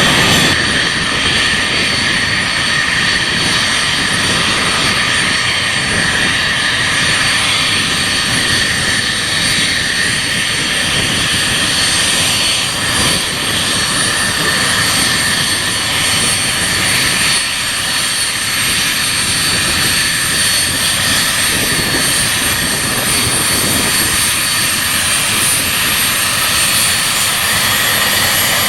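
Avro RJ100 airliner's four turbofan engines running, a loud, steady rush with a high whine held throughout.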